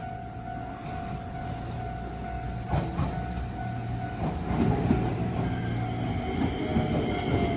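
Shizuoka Railway electric train passing over the level crossing, its wheels rumbling and knocking over the rail joints, with a steady high tone sounding throughout. The train grows louder about halfway through.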